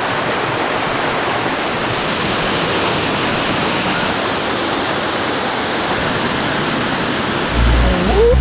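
Waterfall's steady rushing roar of falling water. About a second before the end a deep low rumble joins in.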